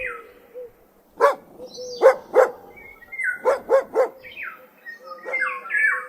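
Dog barking repeatedly, about seven short barks, some in quick pairs and triplets.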